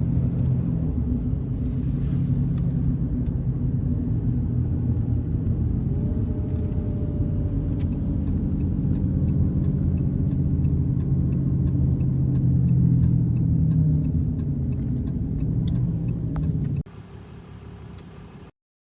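Car driving, with a steady low rumble of engine and road noise and faint clicks at an even pace through the middle stretch. It cuts off sharply near the end to a faint hum, then stops.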